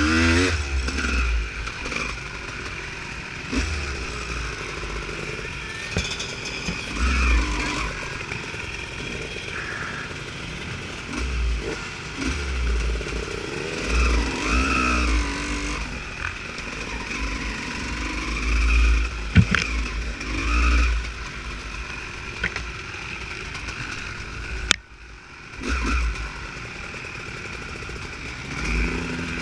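Honda CR250 two-stroke motocross bike engine revving up and down again and again while being ridden off-road, with heavy low buffeting on the microphone. The sound drops out briefly near the end.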